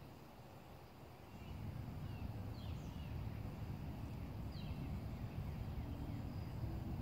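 Small birds chirping sporadically in short, falling notes over a low rumble that swells about a second and a half in and then holds steady.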